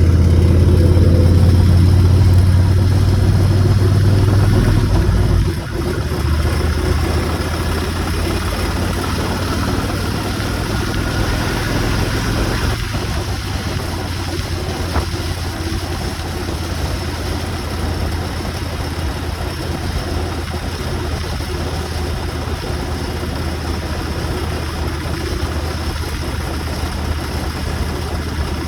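Motorcycle engine running while riding, with a steady low hum. It is louder for about the first five seconds, eases off suddenly, then runs steadily.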